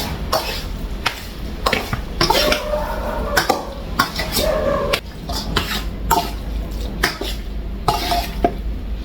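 Seasoned raw chicken being mixed in a bowl for marinating: irregular clinks and knocks against the bowl, a couple of them briefly ringing, about two and a half and four seconds in.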